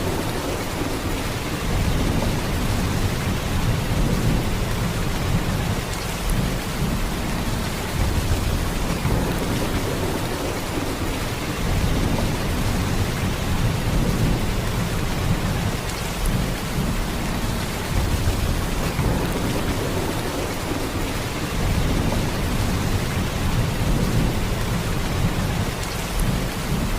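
Heavy rain falling in a steady downpour, a dense hiss over a deep low rumble that swells and eases slowly.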